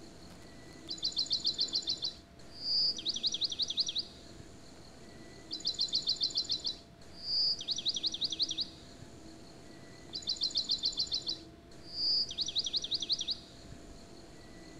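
Songbird singing the same phrase over and over, about every four and a half seconds: a fast high trill, a short whistle, then a quick run of falling notes.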